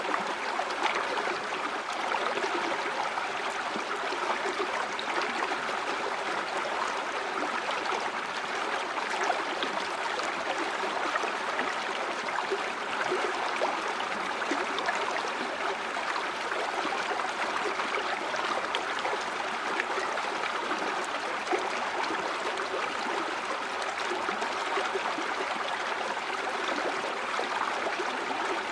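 A river or stream running steadily over stones, a continuous rush of flowing water with small splashes and gurgles.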